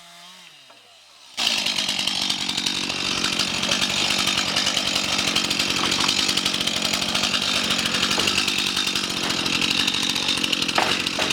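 Chainsaw cutting wood: it comes in suddenly about a second and a half in and runs steadily at a constant pitch.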